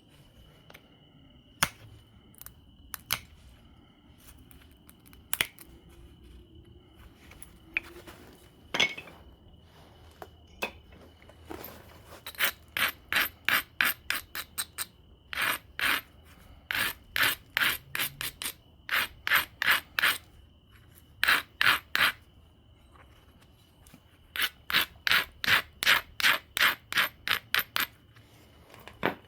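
Abrading stone rubbed back and forth along the edge of an obsidian biface, grinding the edge to prepare platforms. A few separate scrapes come first, then from about twelve seconds in, runs of quick rasping strokes, about three to four a second, broken by short pauses.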